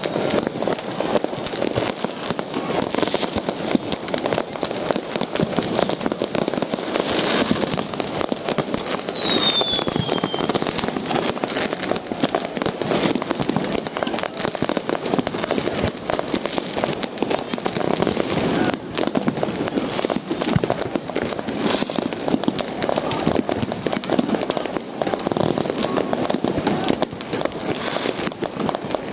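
Fireworks going off in a continuous dense barrage of bangs and crackling, with a short falling whistle about a third of the way in.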